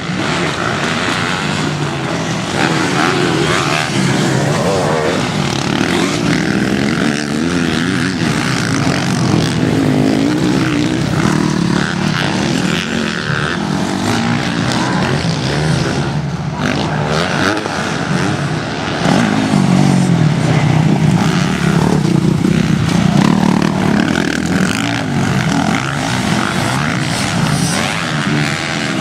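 Motocross bikes' engines running continuously on the track, the engine notes rising and falling as the riders open and close the throttle.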